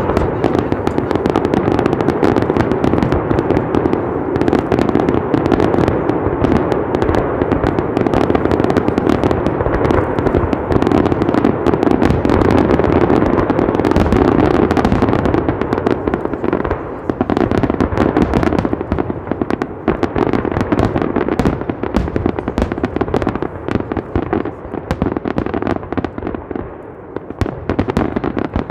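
Fireworks going off in a dense, rapid, continuous string of bangs and crackles, thinning out somewhat over the last third.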